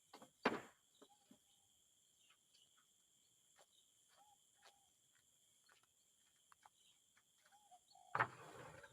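Steady high insect drone with short bird chirps, broken by a sharp knock about half a second in and a louder, longer knock-and-scrape near the end, typical of handling timber boards.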